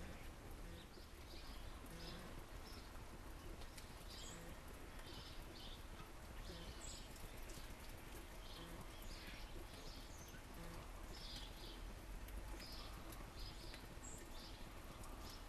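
Small birds chirping: many short, high chirps at irregular intervals, over a steady low rumble.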